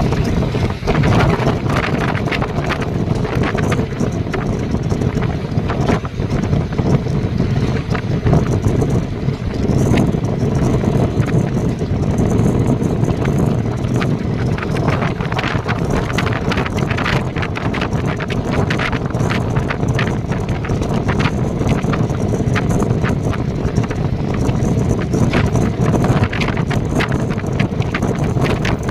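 Steady rumble of a moving vehicle, with wind on the microphone and frequent small rattles and knocks.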